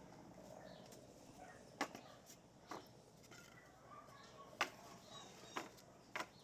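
Five sharp knocks and clicks at uneven intervals over about six seconds, with faint bird chirps behind them.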